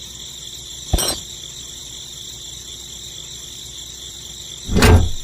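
Steady high-pitched insect chirring, with a sharp click about a second in and a louder thump near the end.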